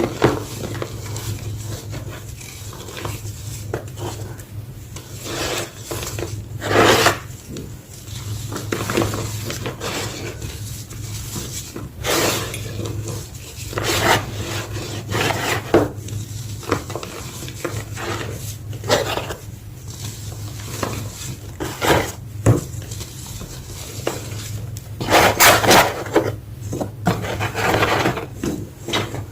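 Small block of gym chalk being crushed and crumbled: an irregular run of dry crunches and scraping rubs, with louder crunches now and then.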